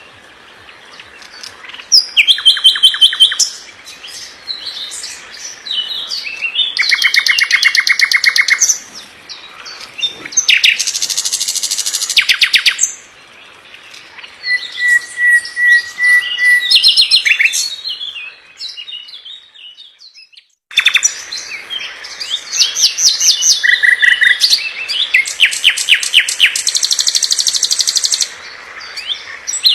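Songbird singing phrase after phrase of fast, tightly packed trills and rapid repeated notes, with short pauses between phrases. Near the middle comes one held whistle, and about two-thirds through the sound drops out briefly.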